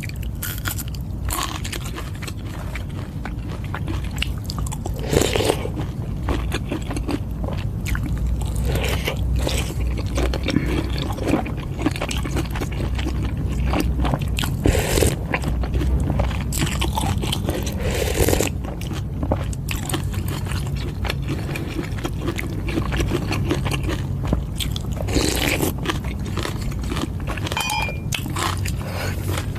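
Close-miked eating of Thai boat noodle soup: chewing and biting, with irregular louder bursts every few seconds.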